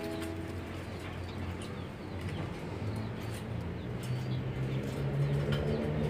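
Lovebirds chirping faintly in short calls over a low hum. A plucked chord fades out in the first second.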